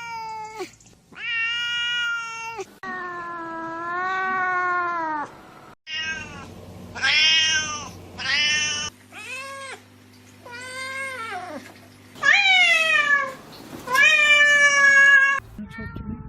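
A series of high, drawn-out animal cries, each call rising and falling in pitch, some short and some held for a couple of seconds, from several clips joined one after another.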